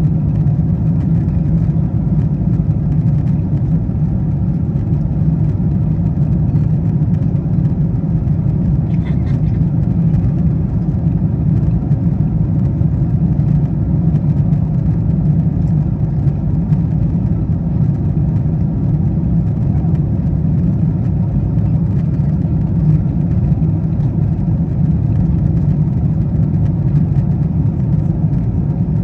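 Steady low rumble of engine and airflow noise inside a Boeing 777-200ER's cabin in flight, heard from an economy seat during the initial descent.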